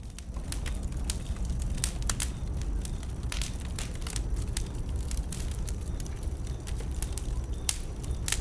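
Wood burning in a bonfire, crackling with irregular sharp pops over a steady low rumble.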